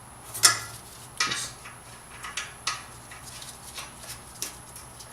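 Metal hand tools and car parts being handled: a string of sharp metallic clinks and clanks with a brief ring, the loudest about half a second in and the rest spaced roughly a second apart.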